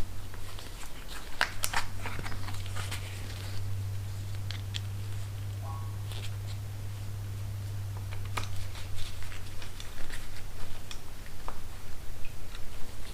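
Scattered light clicks and taps of hand tools and hands working at a motorcycle's cover screws with a Phillips screwdriver, over a steady low hum.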